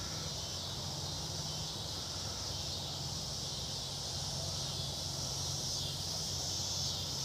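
Steady outdoor insect chorus, a continuous high-pitched drone of crickets or similar insects, with a faint low steady hum underneath.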